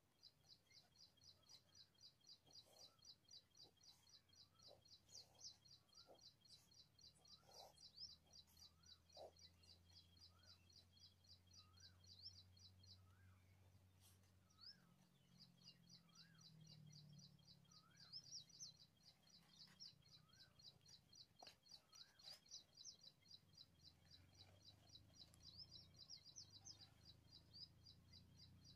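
Faint bird chirping: a rapid, even series of high chirps, about five a second, breaking off briefly about halfway and then resuming. Softer whistled notes come about once a second beneath it, over a low hum.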